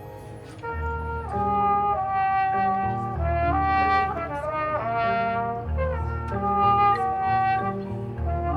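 High school marching band's brass section playing sustained chords over low bass notes, coming in loud just under a second in after a quieter moment.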